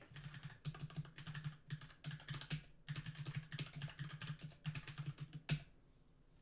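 Fast typing on a computer keyboard, a dense run of keystrokes that stops about five and a half seconds in with one sharper stroke.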